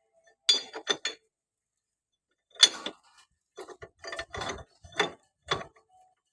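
Metal hand tools clanking and clinking against tractor engine parts during repair work: a quick pair of ringing clanks about half a second in, a single loud clank about two and a half seconds in, then a run of clanks through the second half.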